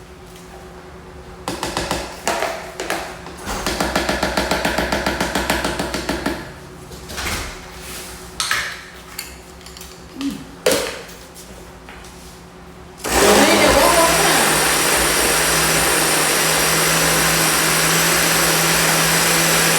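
Countertop blender running steadily at speed through a thick frozen drink of sherbet ice cream and juice, starting about two-thirds of the way in. Before it comes a stretch of rapid rattling and a few knocks.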